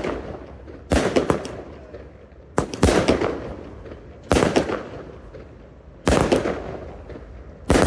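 Fireworks going off: sharp bangs about every second and a half to two seconds, some in quick clusters of two or three, each trailing off in a long echo.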